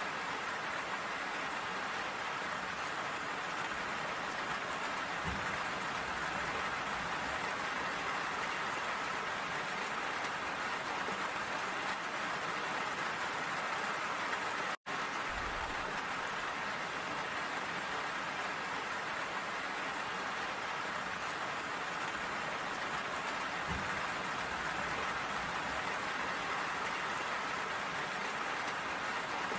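Steady rain falling and splashing, an even hiss of drops that cuts out to silence for an instant about halfway through.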